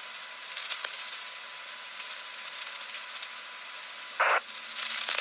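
Radio scanner receiving an open channel with no voice: a steady static hiss with scattered crackling clicks. About four seconds in there is a short, loud burst of noise.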